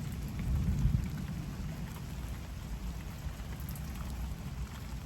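Heavy rain pouring down, with scattered drops pattering close by and a deep low rumble that is strongest in the first second and slowly eases off.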